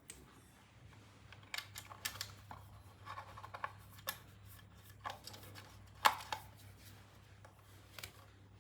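Irregular small clicks and scrapes of hand tools and parts being handled, over a steady low hum; the sharpest click comes about six seconds in.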